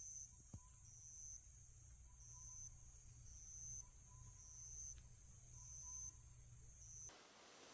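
Faint chorus of crickets and other summer insects: a steady high-pitched drone with a pulsed trill repeating about once a second, over a low rumble.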